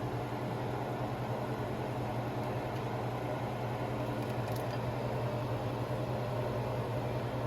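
Steady low mechanical hum with a hiss over it, unchanging throughout, with a faint click about four and a half seconds in.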